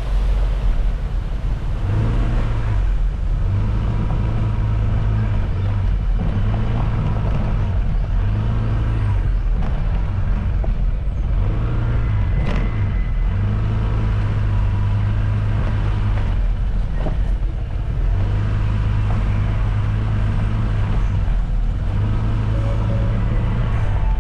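A motor vehicle's engine running steadily, its pitch stepping up and down several times as it changes speed.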